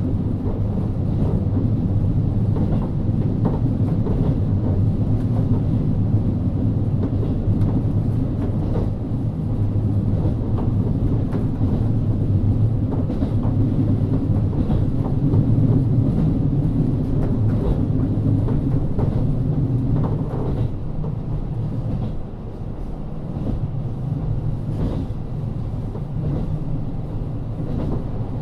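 KIHA40 diesel railcar running on the line, heard from inside the car: a steady low drone from its DMF13HZB diesel engine and running gear, with scattered clicks of the wheels over the rail. The drone eases off a little about three-quarters of the way through.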